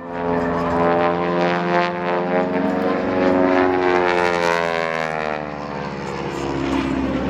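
Propeller airplane flying past, its engine note fading in at the start and dropping in pitch from about halfway as it passes.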